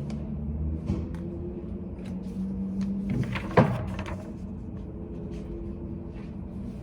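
Study cafe room ambience: a steady low hum with scattered light clicks and taps, and one sharper knock about three and a half seconds in.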